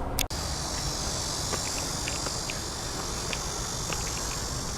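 A steady, high-pitched chorus of insects, crickets or similar, over a low outdoor rumble.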